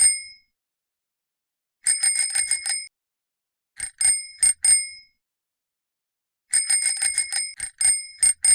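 A bicycle bell rings in quick runs of dings: a burst about two seconds in, a shorter one around four seconds, and a longer run from about six and a half seconds on.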